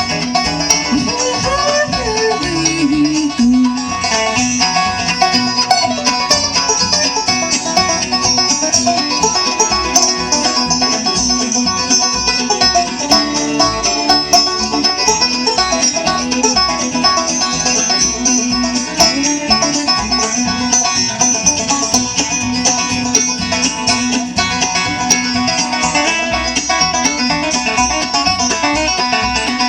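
A bluegrass band playing an instrumental passage, with banjo picking over guitar.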